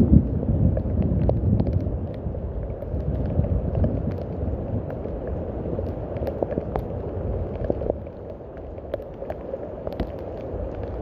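Steady rain with scattered sharp drip ticks over a low, dull rumble that is heaviest in the first couple of seconds and eases off.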